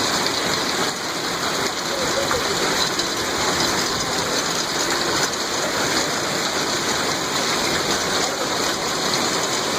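Heavy storm downpour: a steady, dense hiss of falling precipitation that goes on without let-up.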